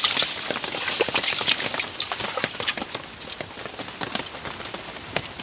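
Outdoor wood cooking fire crackling, with many irregular pops and ticks over a faint hiss.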